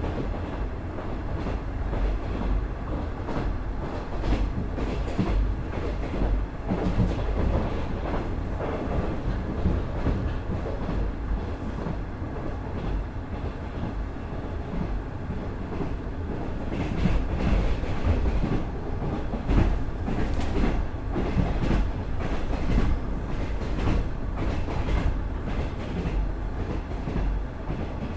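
KiHa 110-200 series diesel railcar, with its Cummins DMF14HZA engine, running along the line: a steady rumble with wheels clicking over rail joints.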